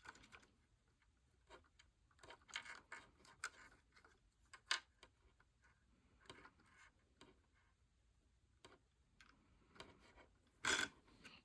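Faint, scattered clicks and taps of small plastic Lego pieces being handled, with a louder click about five seconds in and another near the end.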